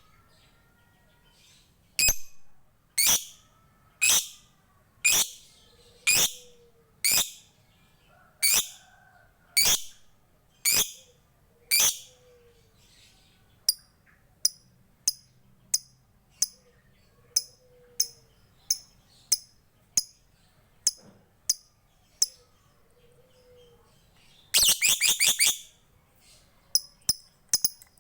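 Lovebird calling: sharp, piercing chirps about once a second, then shorter ticking notes ('ngetik') about twice a second, with a rapid chattering run ('ngekek') near the end followed by quick ticks.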